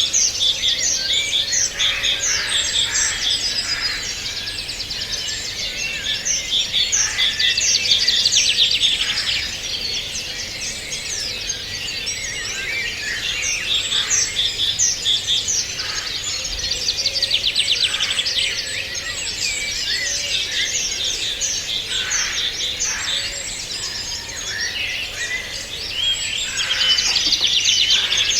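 A chorus of many songbirds singing at once: overlapping high chirps, rapid trills and short downward-sweeping whistles.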